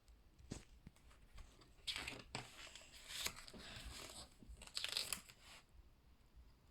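Book pages being turned: a few light paper clicks, then rustling sweeps of paper, loudest about two seconds in and again around five seconds in.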